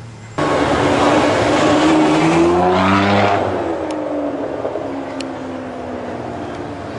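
Supercar engine and exhaust accelerating hard, its pitch climbing for a few seconds and then dropping and settling to a steadier run. It starts abruptly about half a second in.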